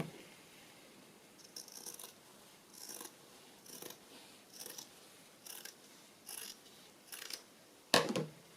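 Scissors snipping through fabric in a steady series of cuts, about one snip a second, with a louder knock near the end.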